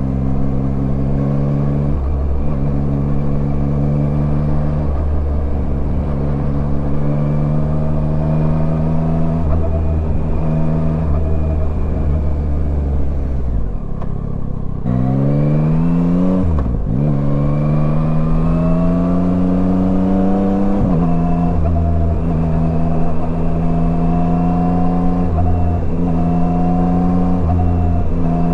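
Yamaha Tracer 9's 890 cc inline-three engine running under way at a steady pitch. About 14 s in, the throttle closes briefly. The revs then climb quickly, with gear changes breaking the rise about 17 s and 21 s in, before settling back to a steady cruise.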